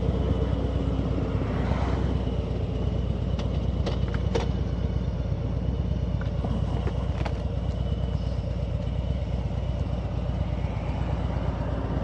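Motorcycle engine running steadily under way on the road, a constant low drone with no change in pace.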